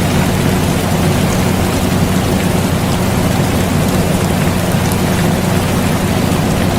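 Air conditioner running with a low, steady hum, mixed with the constant even hiss of rain.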